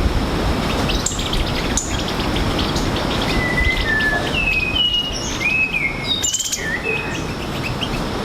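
Forest songbirds calling: a short run of clear whistled notes at varied pitches in the middle, with a few sharp high notes earlier, over a steady background hiss.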